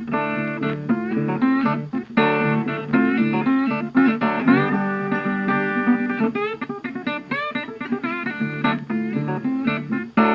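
Background music: plucked guitar playing a quick run of notes, with some notes bent or slid.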